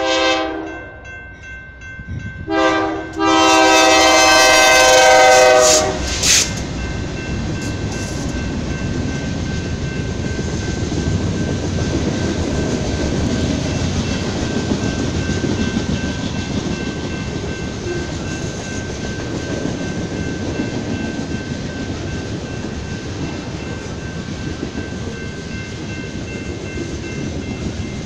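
BNSF freight locomotive's air horn sounding a chord: a couple of short blasts, a long blast of about two and a half seconds, then one more short toot, all in the first six seconds. After that comes the steady rumble and clatter of freight cars rolling past on the rails, with a faint high steady tone over it.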